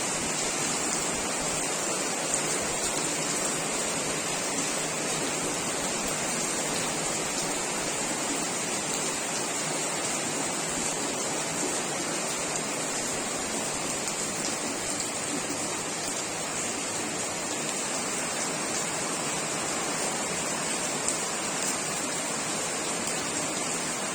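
Heavy rain falling steadily, a dense even hiss with a few faint ticks of drops.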